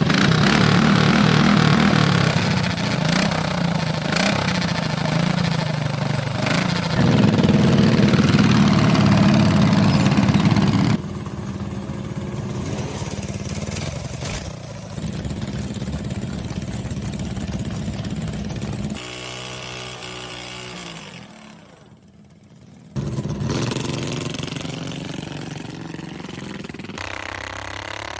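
Small engines of a three-engine drag mini bike running and revving, in several clips cut together: loud for about the first ten seconds, then quieter, with a brief near drop-out about two-thirds of the way through.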